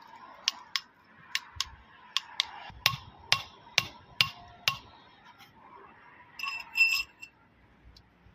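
Hammer striking metal, about a dozen sharp taps in quick pairs, followed near the end by a short ringing clink of metal parts.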